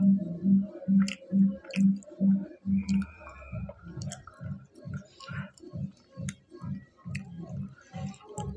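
A person chewing a mouthful of fried pakora, a steady rhythm of about two to three chews a second, heard close up through a clip-on microphone, with a few faint clicks of the mouth.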